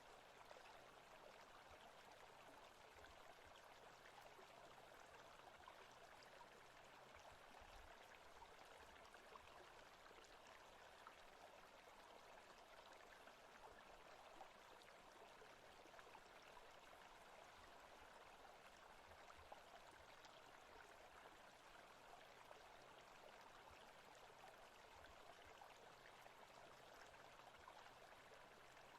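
Faint, steady rush of running water from a forest-stream ambience track.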